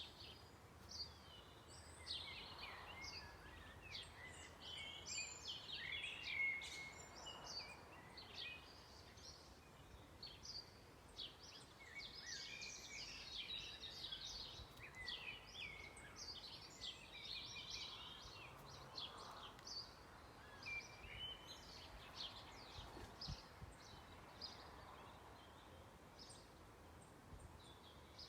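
A faint chorus of several songbirds, with short chirps and warbling phrases overlapping one another throughout.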